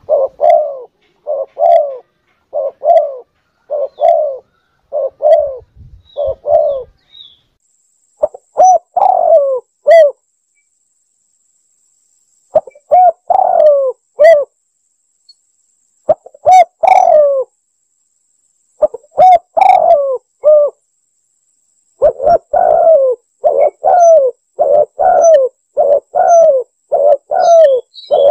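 Spotted dove cooing, played as a recorded hunting lure call: a steady run of short coos, then short phrases with pauses of a second or two between them, then another fast run of coos near the end.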